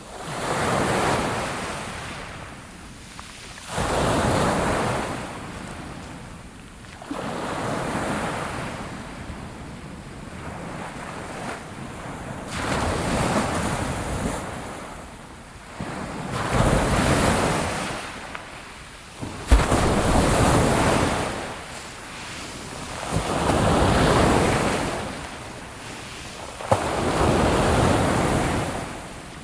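Sea waves breaking and washing up on a shore, surging and fading in a slow rhythm, about one wave every three to four seconds, with a sharp click about two-thirds of the way through.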